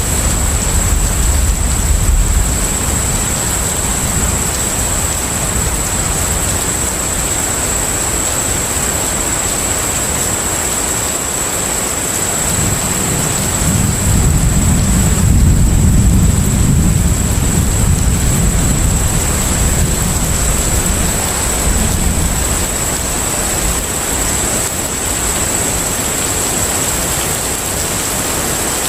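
Container ship at sea: a steady rush of wind and water over a deep rumble that swells for several seconds around the middle. A thin, steady high whine sits above it.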